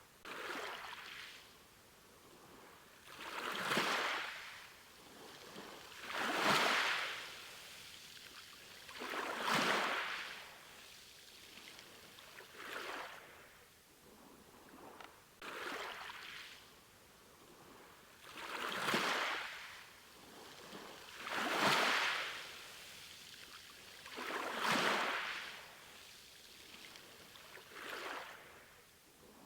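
Ocean waves washing in, one swelling rush of water noise about every three seconds.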